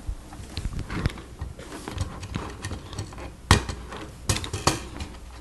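Plastic Lego Technic pieces being handled and fitted together: scattered light clicks and rattles, with a sharper click about three and a half seconds in.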